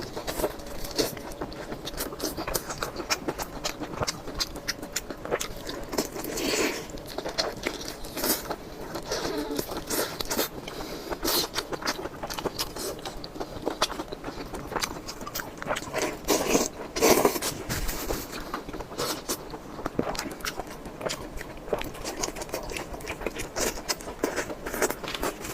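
Close-up eating sounds: irregular wet chewing, biting and smacking of food right at the microphone.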